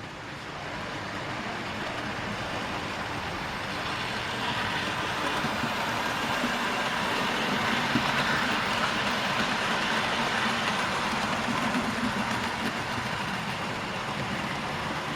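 Model train running along the layout's track, a steady motor hum and wheel rumble that grows louder toward the middle as it comes past and then eases a little.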